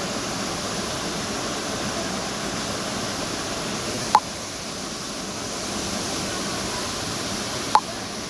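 Steady rush of a waterfall, with two short sharp sounds standing out over it, about four seconds in and again near the end.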